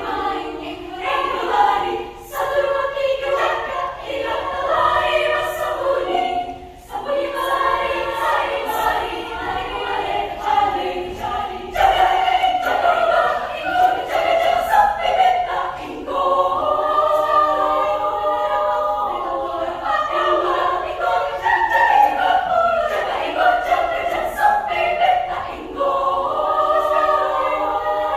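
Children's choir singing in parts, with short breaks between phrases.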